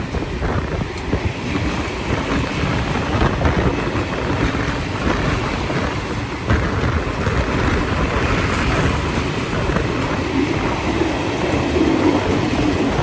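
A train passing close by: a loud, steady rumble of wheels on the rails, with a faint hum rising near the end.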